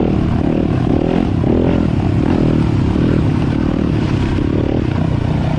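Four-stroke dirt bike engine running steadily under way on a trail, close to the camera, with some clattering from the bike over the ground.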